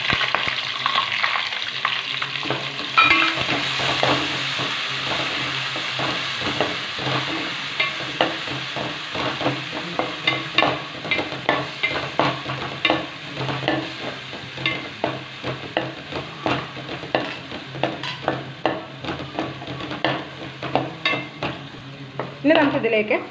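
Crushed ginger, garlic and green chilli with curry leaves sizzling in hot oil in an aluminium pot, stirred with a wooden spatula. Its repeated scraping strokes on the pot become clearer in the second half as the sizzle dies down.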